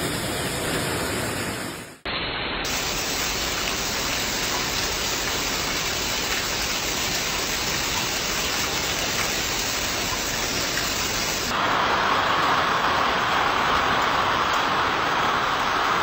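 Heavy hail and rain pounding down in a dense, steady hiss. The sound changes abruptly twice, about two seconds in and again near the end, where it grows louder.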